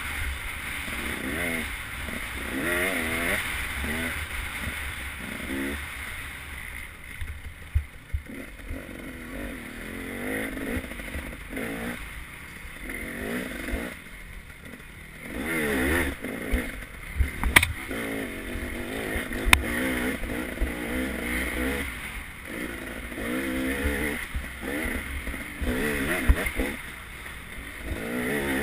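Off-road motorcycle engine revving up and down over and over as it is ridden along a rough dirt trail, heard close from an on-bike camera with rumble and wind noise. Two sharp clicks come in the second half.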